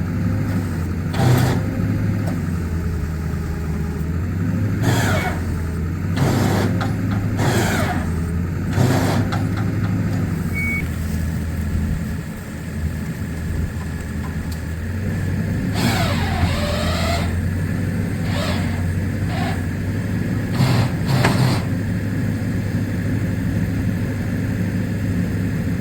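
A vehicle engine running steadily under load while towing a stuck van, with short creaks and scrapes over it, about eight times.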